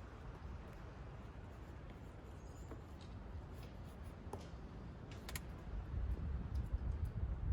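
Faint scratching of a drawing tool on paper, with a few small ticks, while a low wind rumble on the microphone builds near the end.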